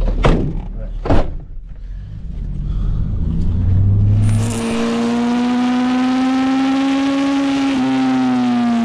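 Two sharp knocks, then a vehicle engine running at steady revs, its pitch rising a little and easing down near the end.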